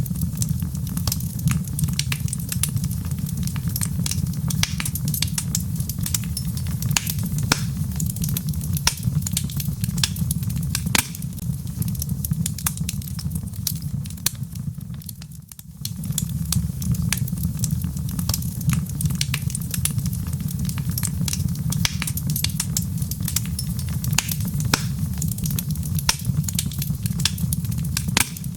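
Log fire crackling: a steady low rumble of flames with many irregular sharp pops and snaps from the burning wood. About halfway through the sound briefly dips, then resumes.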